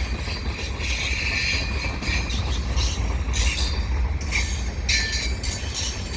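Slow, heavy freight train rolling past: a steady low rumble of the cars on the rails, with high-pitched wheel squeal coming and going several times.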